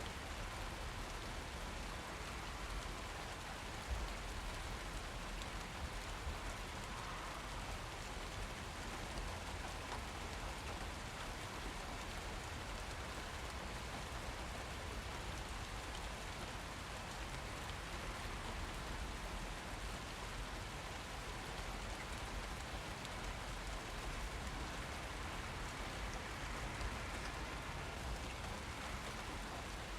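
Steady rain falling, with raindrops pattering on surfaces and a few slightly louder drops now and then.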